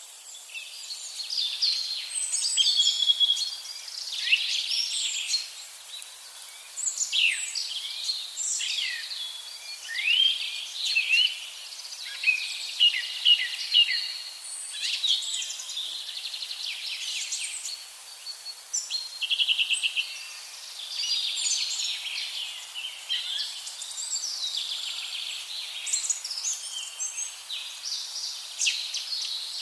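Birdsong: a dense run of short chirps, whistles and trills, many overlapping.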